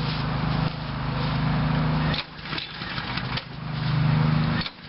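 Briggs & Stratton lawnmower engine pulled over twice on its recoil starter, turning over for about a second and a half each time without catching, because the engine has been run out of fuel.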